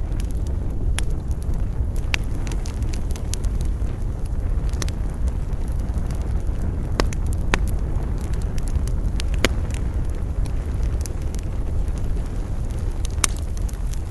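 Campfire crackling, with scattered sharp pops of burning wood over a steady low rumble of wind.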